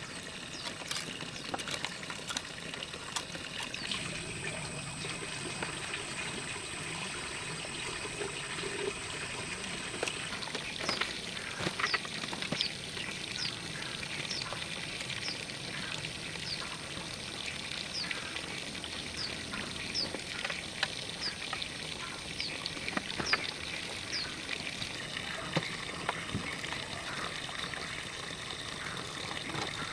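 Water trickling or pouring, with many small clicks. From about a third of the way in, a short high chirp repeats roughly every half second to second for a stretch.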